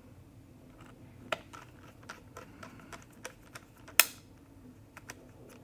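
Light clicks and taps of a small screwdriver and tiny screws against the laptop's case as the battery screws are set in place, with one sharper, louder click about four seconds in.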